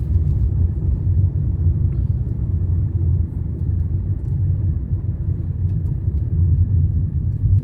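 Steady low rumble of a moving road vehicle, engine and road noise, with no distinct events.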